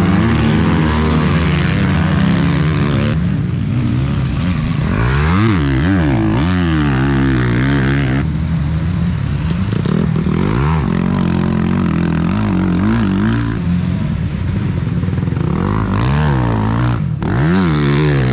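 Several motocross bikes riding the track, their engines revving up and down over and over and overlapping, as the riders accelerate and back off through the course.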